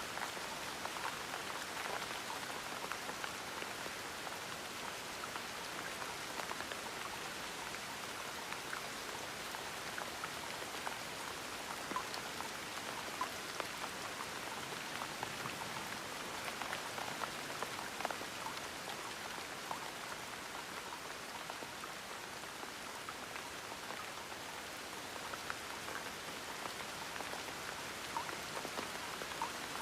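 Steady gentle rain falling, a continuous patter with scattered individual drops ticking through it.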